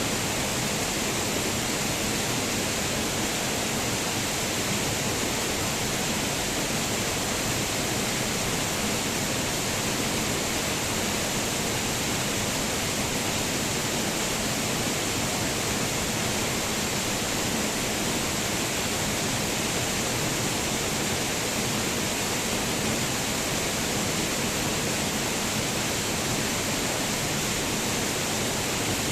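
Waterfall rushing: a steady, even hiss of falling water, strongest in the high range, with no change throughout.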